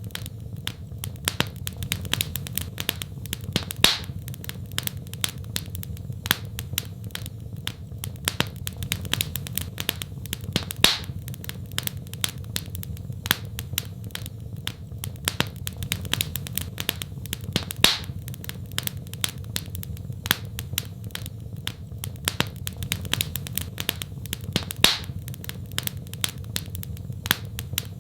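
Wood fire crackling in a fireplace: a dense run of sharp snaps and pops over a steady low rumble, with a louder pop about every seven seconds.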